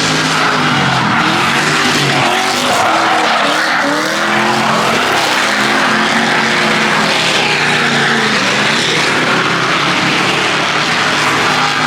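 Car engine revved hard, its pitch rising and falling again and again, over the continuous screech of tires sliding as a car drifts.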